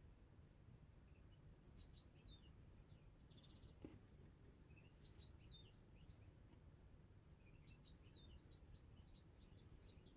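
Near silence with faint, high bird chirps coming in scattered clusters over a low background hum; a soft tap about four seconds in.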